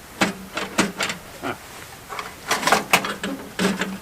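Short mechanical clicks, rattles and brief whirring strokes from working the controls and starter of a late-1980s Montgomery Ward snow blower's Briggs & Stratton 4 hp engine, before it has started. The engine is not yet running.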